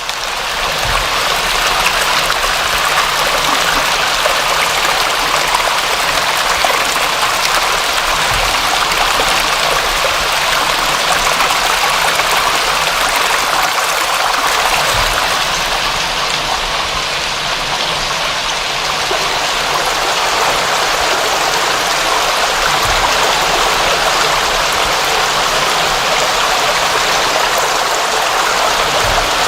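Steady rushing water, an even dense hiss that swells up in the first second or two and then holds.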